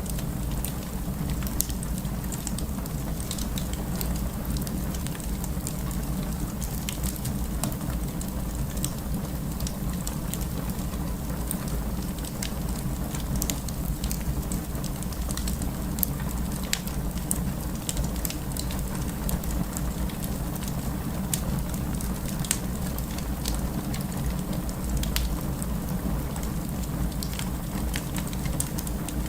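Wood fire crackling: a steady low rumble of flames with many small sharp pops and snaps scattered irregularly throughout.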